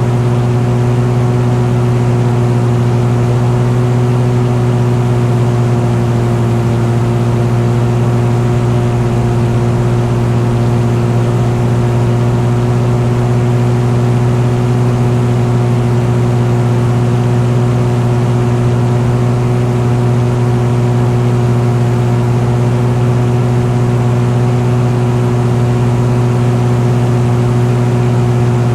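Engine running steadily at an unchanging speed, its hum holding one pitch throughout.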